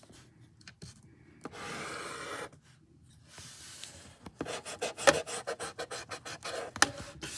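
Drawing strokes on paper: two longer rasping strokes, then a quick run of short back-and-forth scratches from about four seconds in.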